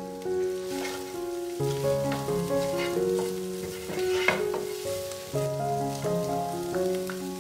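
Minced meat sizzling as it fries in a non-stick pan, stirred with a wooden spatula in repeated scrapes, with one sharper knock a little past four seconds in. A melody of held notes plays alongside.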